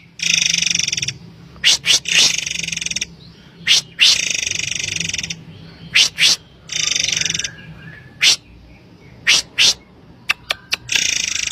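Murai air bird calling: harsh buzzy trilled phrases about a second long, repeated several times, alternating with short sharp whistled notes, some in quick pairs, and a few faint clicks near the end, as a lure call.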